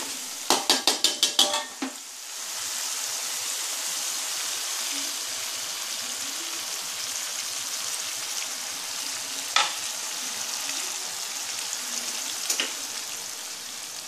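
Fish cooking in a pan of sauce, sizzling with a steady hiss. A spatula knocks sharply on the pan about seven times in quick succession near the start, and clinks against it twice more later.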